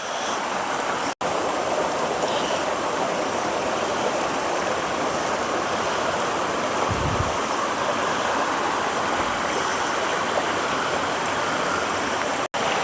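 Swollen woodland river rushing steadily. It cuts out for an instant about a second in and again near the end.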